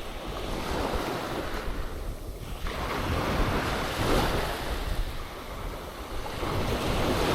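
Ocean surf breaking and washing up a sandy beach, swelling and ebbing in slow waves, loudest a few seconds in and again near the end, with wind rumbling on the microphone.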